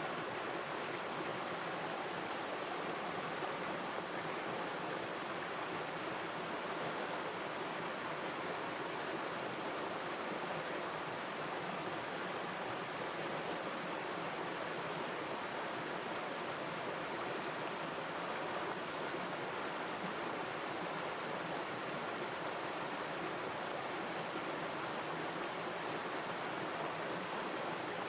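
A river stream flowing steadily: an even rush of running water with no changes or separate splashes.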